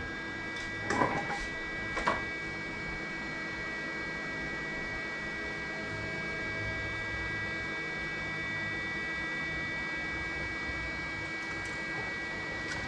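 Steady electrical hum with a high whine from a plugged-in wire-feed welder, with a couple of short clicks and knocks about one and two seconds in.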